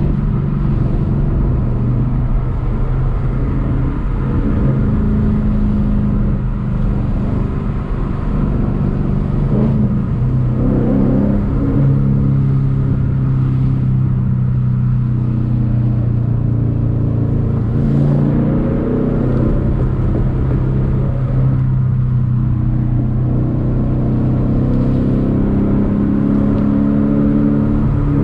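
Ford Mustang GT's 5.0 V8 engine and exhaust running steadily while driving, its pitch shifting a little as the throttle changes.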